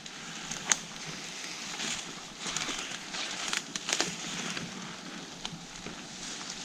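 Footsteps pushing through brush and woody debris on the forest floor: steady rustling and crunching, broken by several sharp twig snaps.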